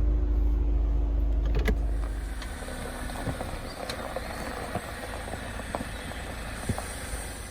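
2021 Jeep Wrangler JLU engine idling with a low rumble and a single click, then shutting off about two and a half seconds in. A faint outdoor hiss with small scattered ticks remains.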